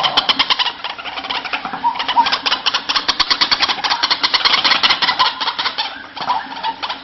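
White-breasted waterhen (ruak-ruak) calling: a fast run of harsh, rattling pulses, about nine a second, with brief let-ups about two and six seconds in. The call is used to lure the birds.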